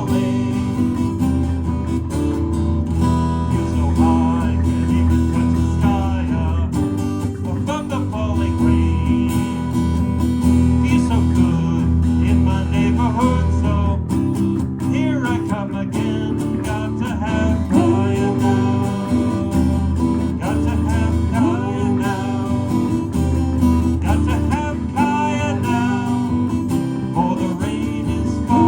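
Live band music with strummed guitar over a steady, heavy bass line.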